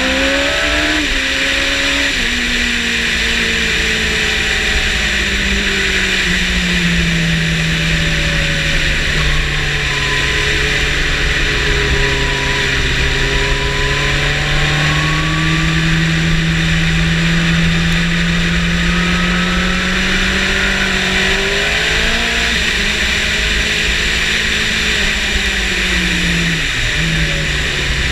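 Motorcycle engine at speed on a race track, its pitch falling early on, then climbing slowly through a long pull, then dropping again with a sudden dip near the end before rising once more. Heavy wind rush over the microphone throughout.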